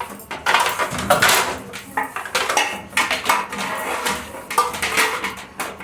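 Dishes and containers clattering and clinking as they are handled and set down one after another, in a rapid string of knocks with short ringing tails.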